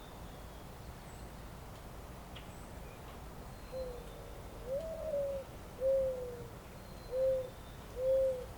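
Pigeon cooing: a phrase of five low coos beginning about four seconds in, the second higher and longer, the last three short, over a faint steady hiss.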